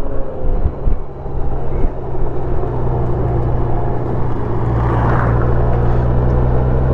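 A 2021 Honda Gold Wing Tour's flat-six engine running steadily while under way, heard from on the bike with wind and road noise. It dips briefly about a second in, then holds a steady hum.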